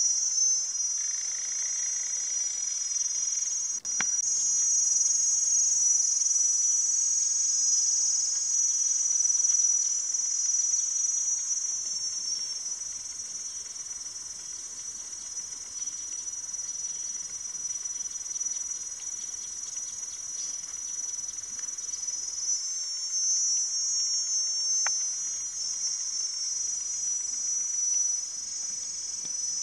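Loud, steady high-pitched chorus of jungle insects, cicadas or crickets, buzzing without a break.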